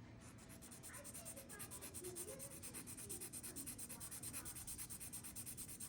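Rapid, even scratching strokes, about five a second, of hand work on a small plastic model part, such as sanding, filing or brushing.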